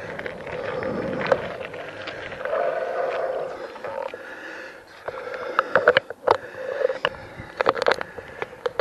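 Bicycle riding along, with steady tyre and rolling noise, then a run of sharp clicks and rattles from about halfway through, as from the bike jolting over a rough surface.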